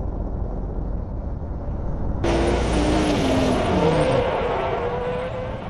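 Motor vehicle engine running: a low, muffled rumble for about two seconds, then louder and fuller, with the engine pitch falling and then rising again, like a car passing or revving.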